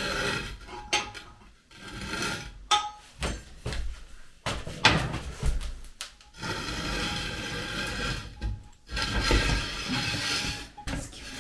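Metal clanks and knocks at a wood-fired masonry stove as its door is opened to reach the pot inside, followed by two long stretches of scraping.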